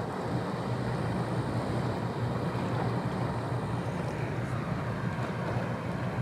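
Boat engine droning steadily under a wash of water and wind noise.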